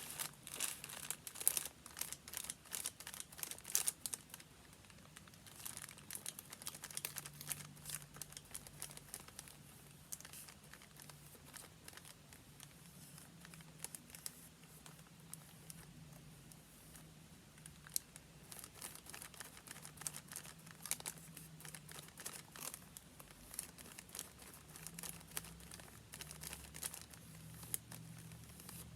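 Paper being handled and crinkled, a run of quick crackles that are densest in the first few seconds and then come sparser.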